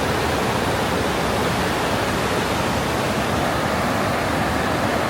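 Heavy torrent of water at Haew Narok waterfall rushing steadily and loudly, a dense unbroken noise.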